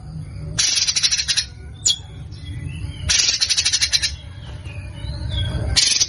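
Recorded songbird song of the rough, rapid-fire kind called 'tembakan kasar': three bursts of dense harsh rattling notes, with a short sharp whistle between the first two and softer chirps in the gaps, over a steady low rumble.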